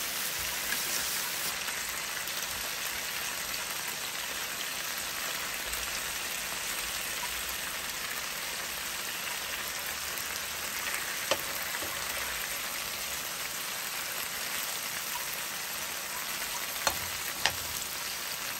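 Meat and onions sizzling steadily in oil on a ridged grill pan, with a few sharp clicks of metal tongs against the pan, two of them close together near the end.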